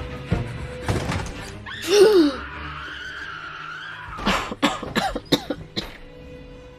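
Film soundtrack music with a loud vocal cry about two seconds in, then a quick series of short, sharp vocal sounds near the end.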